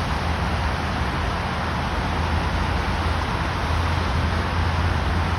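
Steady outdoor roar with a strong, constant low rumble and no distinct events.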